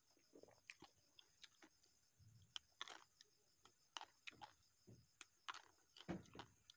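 Faint, close-miked eating sounds: chewing with soft wet smacks and small irregular crunches. Near the end, raw turkey berries (takokak) are bitten off the sprig and crunched.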